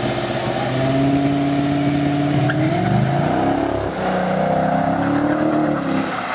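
Dodge Challenger SRT8's 392 (6.4-litre) Hemi V8 launching at full throttle on a quarter-mile run and pulling away. The engine note climbs, drops back about four seconds in as it shifts up a gear, then climbs again.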